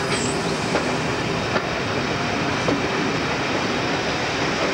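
Diesel-hauled passenger train running, heard from an open carriage window: steady engine and wheel noise, with a few sharp clicks from the wheels on the track and a brief high wheel squeal at the start.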